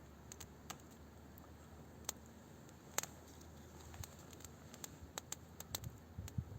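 Campfire of small sticks crackling faintly, with scattered sharp pops, one louder about three seconds in. Some low bumps come in near the end.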